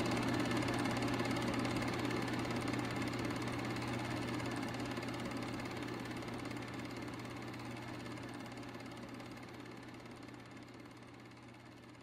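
A steady, machine-like hum with hiss, starting abruptly after a click and slowly fading out.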